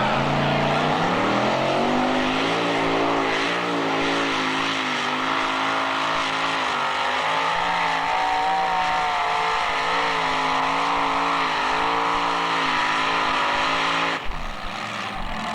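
Two-wheel-drive pulling truck's engine revving up over the first couple of seconds, then running flat out under load with small rises and falls in pitch, until it stops abruptly near the end.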